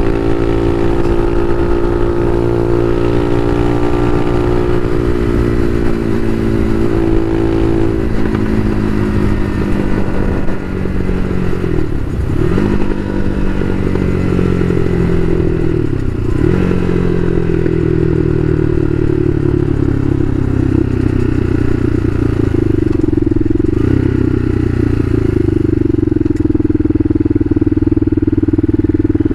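Bashan Motomax 250 supermoto's engine running under way: a steady engine note whose pitch falls about eight seconds in, dips briefly twice at about twelve and sixteen seconds, then holds steady.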